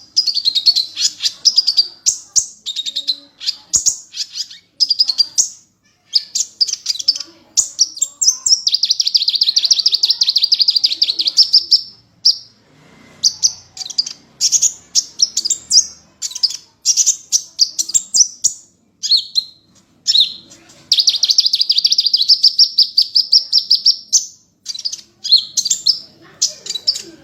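Sunbird (genus Aethopyga) singing: a run of high, thin chirps and rapid trills, broken by two long trills of about three seconds each, one near the middle and one later on.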